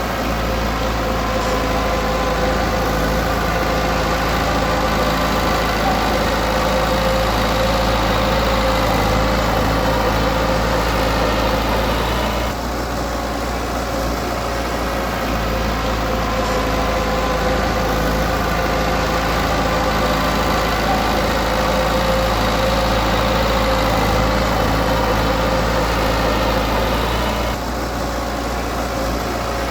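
Komatsu D20P bulldozer's diesel engine running steadily, easing off briefly twice.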